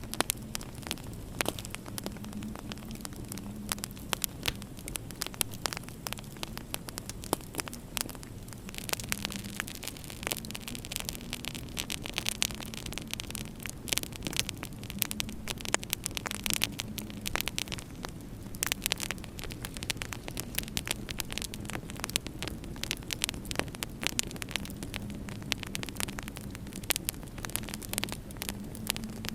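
Wood fire crackling in a fireplace, with frequent sharp pops and snaps over a low steady hum and hiss. A brighter hiss comes in about nine seconds in and fades near nineteen seconds.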